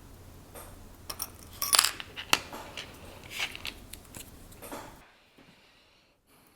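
Small metal watchmaker's tools clicking and scraping against the parts of a watch movement as it is taken apart: a handful of sharp light clicks, then a sudden drop to near silence about five seconds in.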